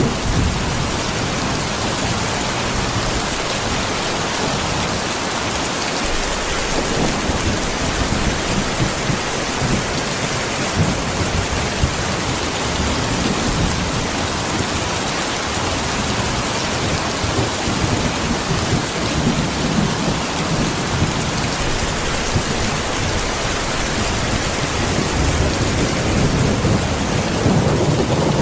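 Steady heavy rain with thunder, the low rumbles swelling and fading beneath the downpour.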